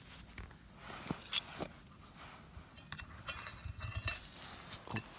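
A few scattered light metal clinks and taps as shashlik is taken off the campfire.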